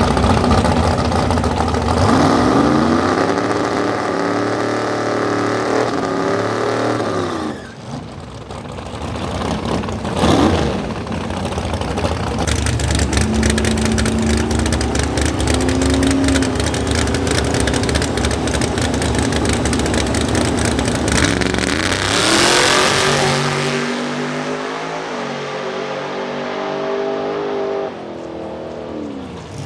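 Drag race car accelerating hard down the strip, its engine note climbing in pitch and dropping back at each gear change, over several runs of shifts, with a loud rushing swell partway through.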